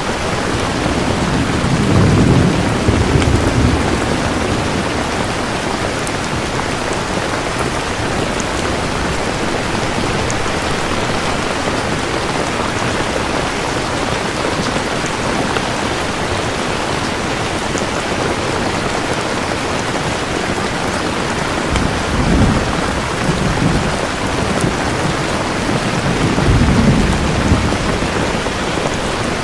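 Steady heavy rain with thunder rumbling three times: about two seconds in, again roughly three quarters of the way through, and once more near the end.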